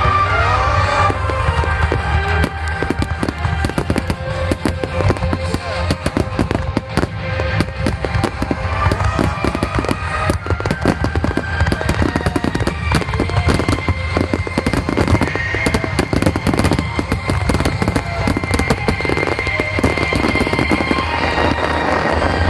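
Fireworks bursting and crackling in rapid, dense succession over music from the show's loudspeakers.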